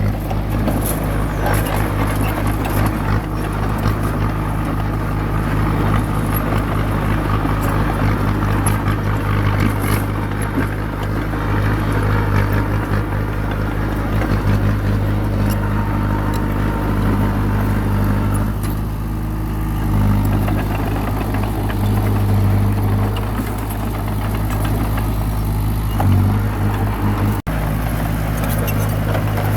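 Small crawler bulldozer's diesel engine running steadily under work, with faint clanks from the machine.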